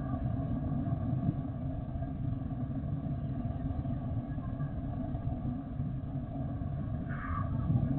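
Steady low rumble of jet aircraft engines, with faint steady whining tones above it.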